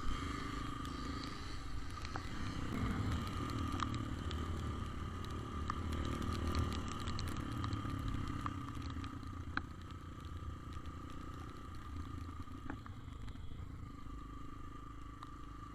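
Motor scooter running steadily: a low rumble with a thin steady whine above it, and scattered clicks and rattles.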